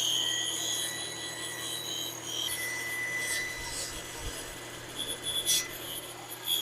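Electric saw, its blade raised to cut right through, running through a wooden board: a steady high whine over a rasping cut, loudest at the start and easing off, with a few sharper knocks near the end.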